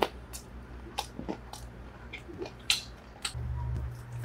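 Close-miked chewing and biting of pizza, heard as a few sharp, crisp clicks and smacks. About three seconds in, a low steady hum starts.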